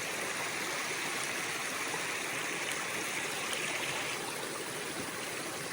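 Small snowmelt mountain stream running steadily.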